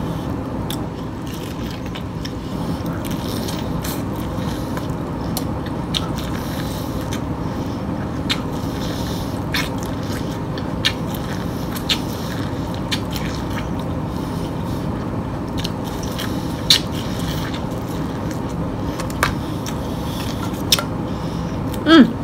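Biting and chewing corn on the cob close to the microphone, with short, crisp clicks of kernels scattered throughout over a steady background noise.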